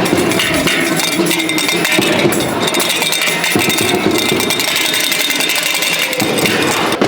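New York City subway train running, with a steady high whine over loud rumbling noise.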